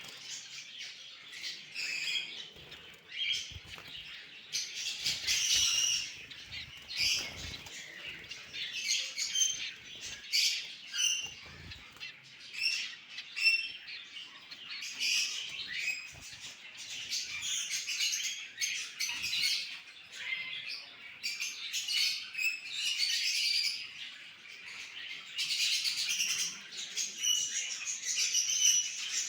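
A group of cockatiels chirping and squawking, with many short calls overlapping throughout.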